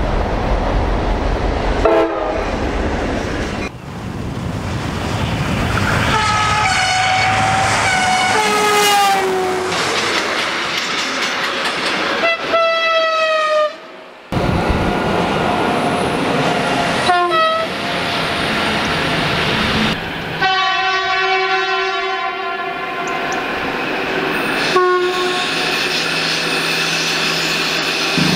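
Makrofon air horns on German trains, in a string of clips cut one after another: about half a dozen blasts, some short and some longer that fall in pitch as the train passes, and one long steady blast near the end. Train running noise lies between the blasts.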